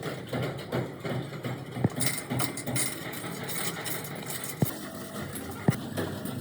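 Workshop noise with three sharp knocks, about two, four and a half, and five and a half seconds in.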